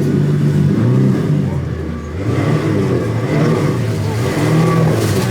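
Tour boat's engine running under throttle, its pitch rising and falling.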